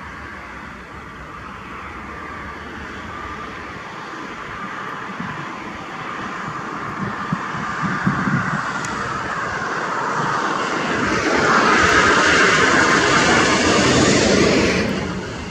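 Vehicle noise at highway speed, a steady rushing drone that builds up gradually, is loudest near the end, and then drops off suddenly.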